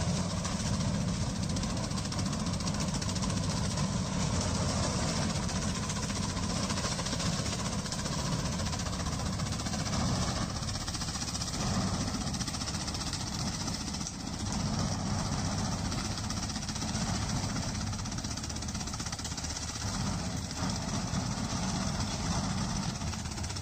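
Engine-driven farm machine running steadily, with a dense low rumble and a hiss of mechanical noise that shifts slightly in level now and then.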